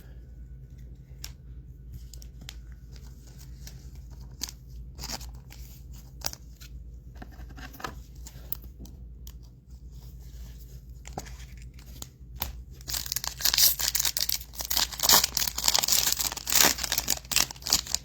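A foil trading-card pack being torn open and crinkled: a loud crackling tear lasting about five seconds in the last third, after light scattered clicks of cards being handled.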